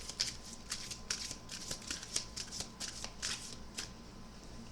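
A deck of oracle cards being shuffled by hand: a quick run of short card flicks and slaps that thins out near the end.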